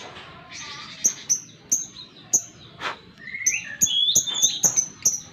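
Lovebird calling in a series of short, sharp, high chirps, coming closer together in the second half, with a few lower chattering notes mixed in about three and a half seconds in.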